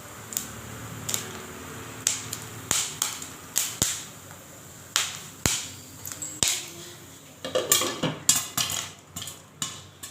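Popcorn kernels popping: single sharp pops about once a second, then a quicker, denser run of pops over the last couple of seconds as more kernels burst.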